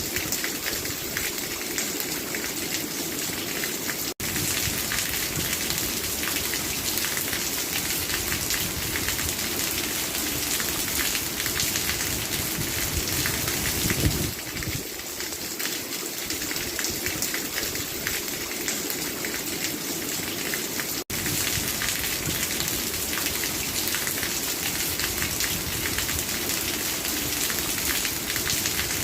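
Steady heavy rain falling, a dense patter of many drops on a hard surface. It cuts out for an instant twice.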